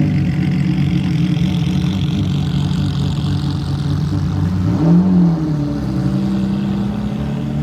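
Ferrari sports car engines running as the cars pull away, with one brief rev that rises and falls about five seconds in.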